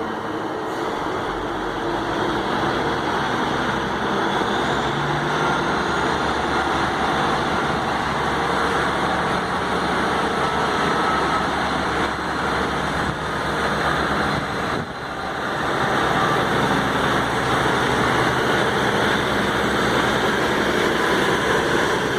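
Class 150 Sprinter diesel multiple unit's underfloor diesel engines running under power as the train pulls away from the platform, a loud steady drone.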